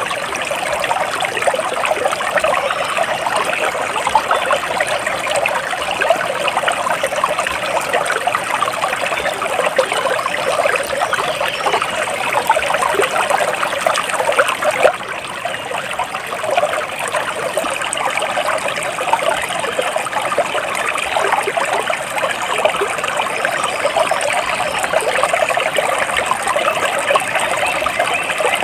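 Flowing water trickling and splashing steadily, like a small stream over stones.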